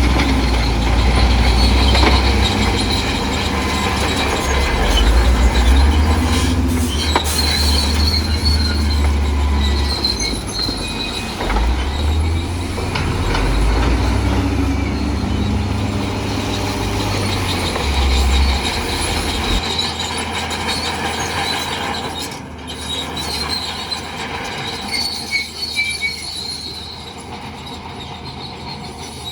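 Crawler bulldozer at work: the diesel engine runs under load while the steel tracks squeal and clank. The heavy low engine sound drops away about two-thirds of the way through, leaving the squealing and clatter quieter.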